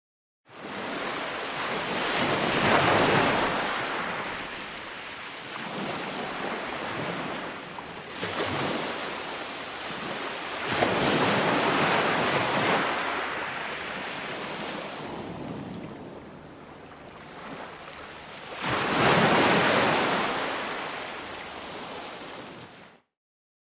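Ocean surf: waves breaking and washing in, swelling three times about eight seconds apart. The sound starts abruptly just after the beginning and cuts off abruptly just before the end.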